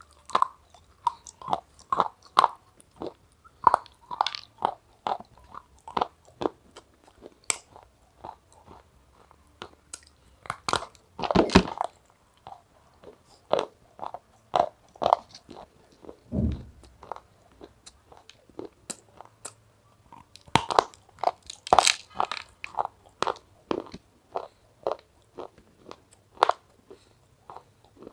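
Close-miked biting and chewing of crunchy food: a quick run of short, sharp crunches, with louder bursts of crunching about eleven seconds in and again a little past twenty seconds.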